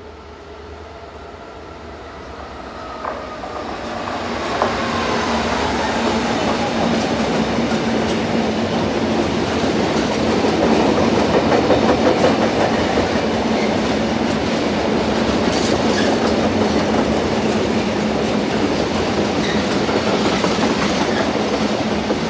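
Locomotive-hauled freight train of empty steel-carrying flat wagons running through the station. It grows louder over the first few seconds as the locomotive comes past, then settles into a steady rumble of wagon wheels with clicks over the rail joints.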